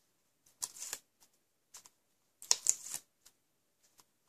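Backing liner being peeled off strips of double-sided adhesive tape (Tear & Tape) stuck to card: two short peels, about half a second in and again about two and a half seconds in, with a few light ticks between.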